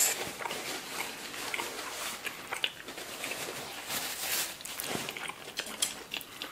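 Close-up chewing of sushi, with many small crunchy crackles and wet mouth sounds. A short paper-napkin rustle comes about four seconds in.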